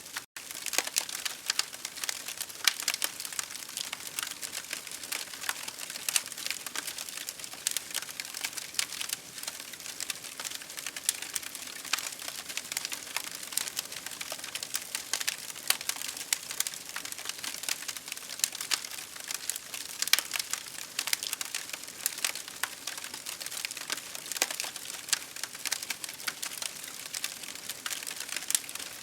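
Campfire crackling, with dense irregular pops and snaps over a steady hiss.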